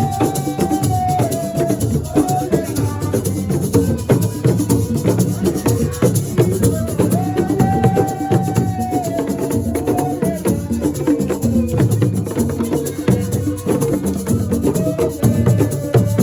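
Live assiko-style band music: dense hand-drum and rattle percussion under a melody of long held notes that slide from one pitch to the next.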